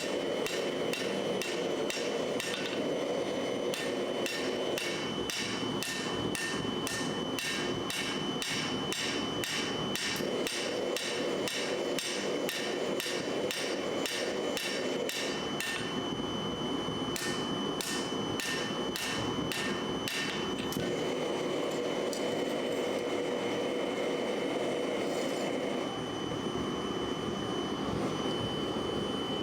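Hammer forging steel on an anvil: an even run of ringing blows, about two to three a second, with a short break about halfway, another run, then only a few scattered blows near the end.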